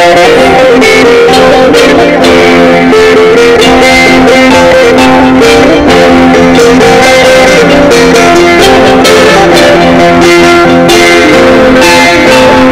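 Sape, the plucked boat-lute of Borneo's Dayak people, being played: a continuous run of plucked melody notes over steady, held low tones.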